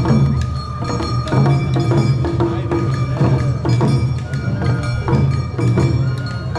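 Awa Odori festival music (narimono) playing to a regular beat: drum strikes, bell-like metal ringing and wooden clacks over a steady low drone and held melody tones.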